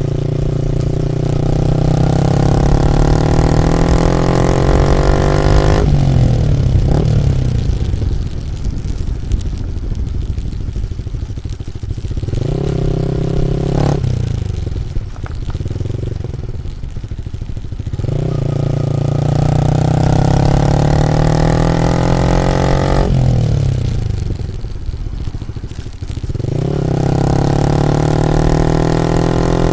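Yamaha MT-15 V2's single-cylinder engine through a full Akrapovic aftermarket exhaust, revved up and held at high revs, falling off sharply when the throttle closes, then opened up again several times.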